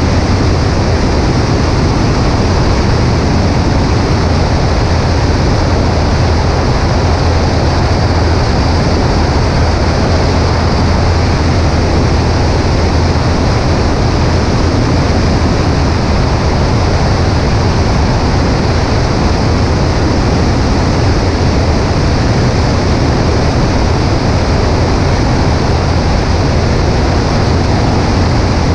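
Cessna 140A light aircraft in flight: a steady, loud engine and propeller drone under constant rushing wind noise, with no change in power.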